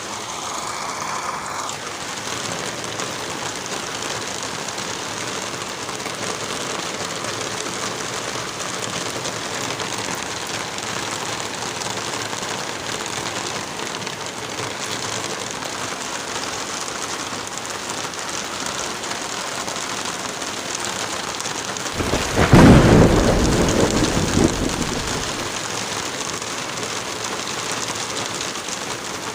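Steady rain falling, with a single loud rumble of thunder about three quarters of the way in that fades over about three seconds.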